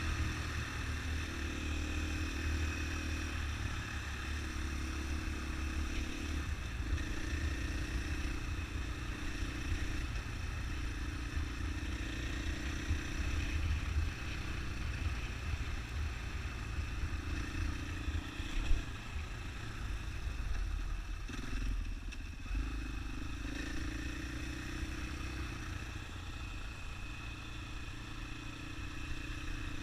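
Husqvarna single-cylinder four-stroke dirt bike engine running under way on a rough road, heard from a bike-mounted camera, its note swelling and easing off every few seconds with the throttle. A single sharp knock about two-thirds of the way through.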